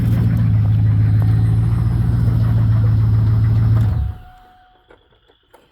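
1999 Camaro Z28's LS1 V8 idling with a rapid knocking noise, which the owner can't place as a rod knock or a lifter tick. About four seconds in the engine is switched off and runs down quickly, leaving a few faint clicks.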